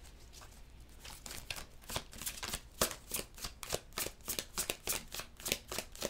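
A tarot deck being shuffled by hand: a quick, even run of soft card snaps and slaps that starts about a second in.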